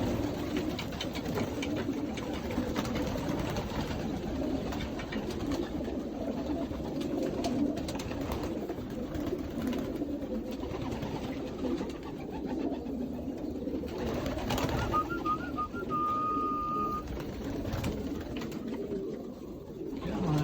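A loft full of young racing pigeons cooing continuously, with scattered light clicks and knocks of birds moving. About fifteen seconds in, a few short high chirps lead into a brief steady high whistle.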